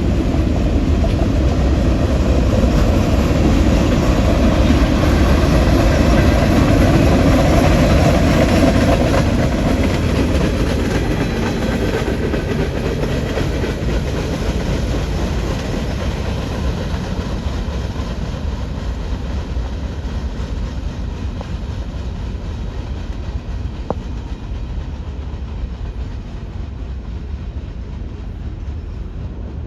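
Train rolling past on the rails, a steady rumble of wheels and cars that is loudest about seven seconds in and then slowly fades as it moves away.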